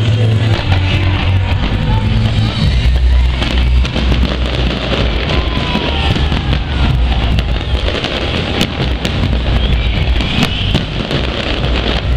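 Fireworks going off over loud music with a heavy bass line: scattered sharp bangs and crackles, the sharpest about two-thirds of the way in, against the steady music.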